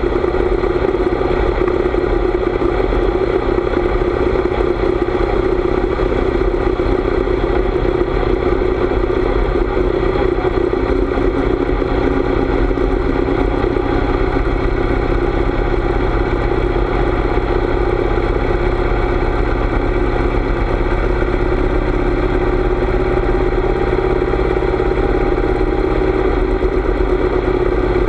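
Harley-Davidson V-twin motorcycle engine running steadily while riding, its pitch holding nearly constant throughout.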